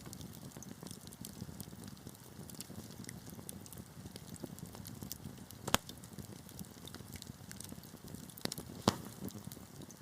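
Wood fire crackling in a fireplace: a steady low rush of burning with frequent small snaps, and two sharper pops, one about six seconds in and one near nine seconds.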